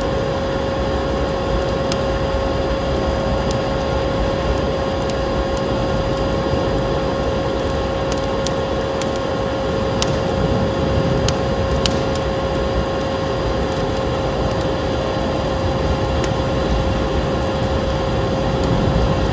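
Vacuum cleaner motor running steadily with a constant whine, mixed with the crackle and pops of a wood fire in a fireplace.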